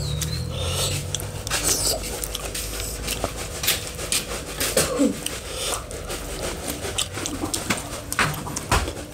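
Close chewing and lip-smacking from eating with the hands, a run of short, irregular wet clicks.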